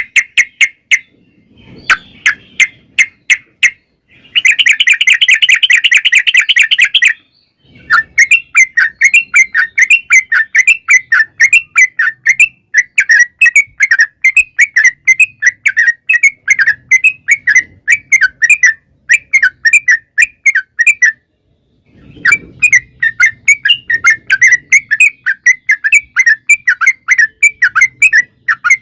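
Trucuk (yellow-vented bulbul) singing loud, fast chattering rolls of repeated notes, several a second. About four seconds in, the notes run together into one dense trill for about three seconds. There is a brief pause about three-quarters of the way through.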